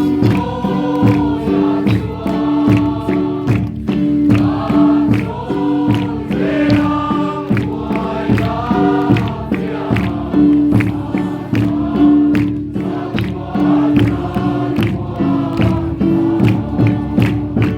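A choir of voices singing a gospel song over instrumental accompaniment with a steady beat.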